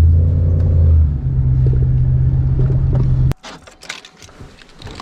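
Pickup truck engine running with a steady low hum that steps up in pitch about a second in, then stops abruptly a little over three seconds in, leaving a few light clicks and knocks.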